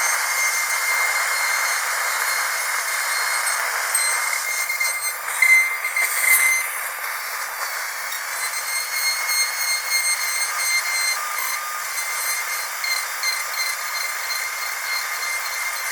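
Dentist drill running with a steady high-pitched whine, with two brief louder spikes about five and six seconds in.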